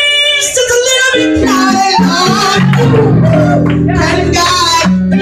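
A woman singing gospel in a strong voice, her melody sliding and bending over sustained low notes that change pitch every second or so.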